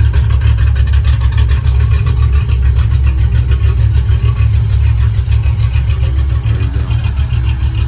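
Cammed 350 small-block V8 of a hot-rod pickup idling steadily with a deep, even rumble.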